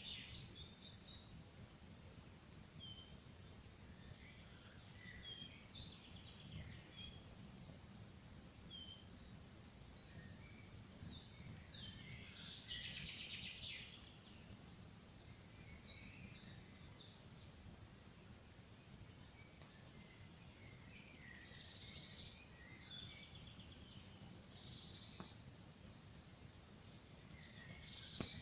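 Songbirds chirping and singing, with many short calls throughout and denser bursts of song about twelve seconds in, around twenty-two seconds in, and near the end. A faint low crackle from a campfire lies underneath.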